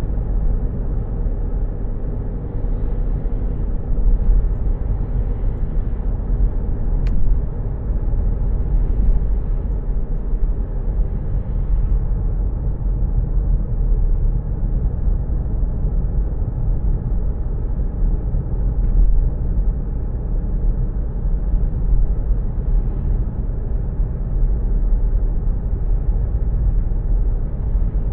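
Steady low rumble of road and engine noise heard from inside a moving car's cabin, with one faint click about seven seconds in.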